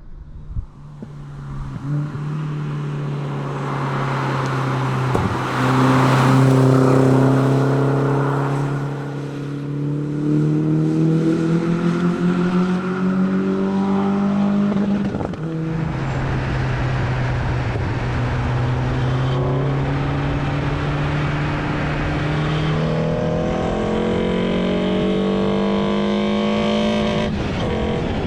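Renault Sandero R.S.'s 2.0-litre four-cylinder engine under hard acceleration: the engine note rises steadily for about fifteen seconds, drops at a quick upshift, then climbs again through the next gear until another shift near the end.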